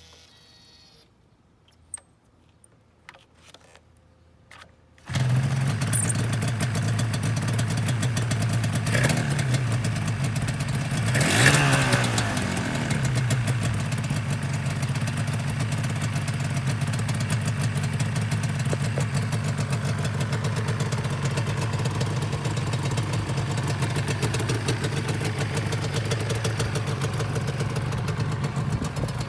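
Yamaha R1-Z's two-stroke parallel-twin engine starting: a faint whir and a few clicks, then the engine catches suddenly about five seconds in. It settles to idle, is blipped briefly, revved once a little higher with the pitch rising and falling, and then idles steadily.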